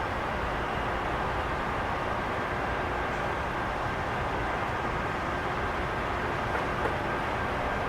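Jet airliner engines running with a steady, even noise that holds at the same level throughout.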